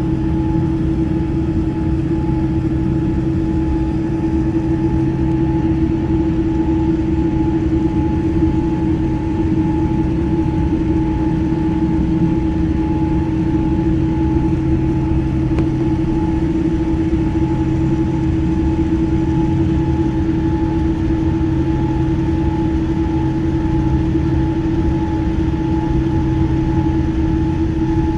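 Airliner engines running at a steady low power before takeoff: a constant hum and rumble with two unchanging tones, neither rising nor falling.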